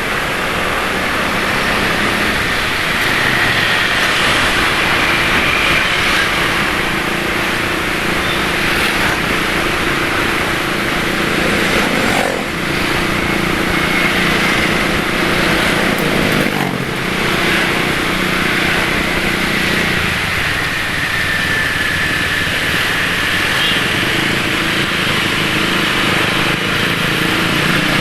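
Motorcycle traffic heard from a moving scooter: steady engine drone with road and wind noise, a faint whine drifting up and down, and the rough-running engines of other motorcycles nearby.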